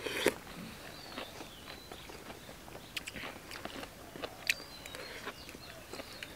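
Chewing and mouth smacking of people eating red ant eggs with rice, which pop when bitten, with a few sharp clicks of metal spoons.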